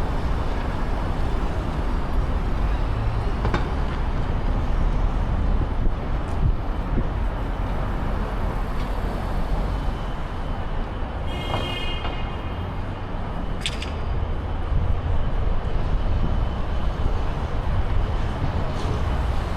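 Downtown street traffic: a steady rumble of passing vehicles. About eleven seconds in there is a brief high-pitched squeal, and a sharp click follows a couple of seconds later.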